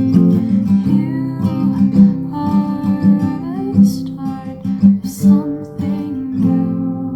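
Acoustic guitar played in a mix of strummed chords and picked notes. Near the end a final chord is left to ring out and fade.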